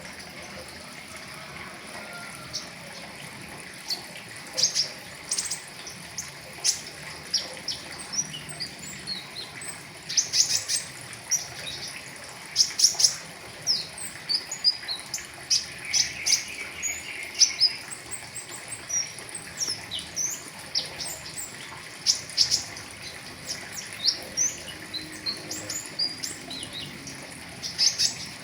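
Pentis raja flowerpecker singing a rapid, chattering string of short, very high chirps and twitters. The notes are sparse at first and come thick and fast from about ten seconds in, over a faint steady hiss.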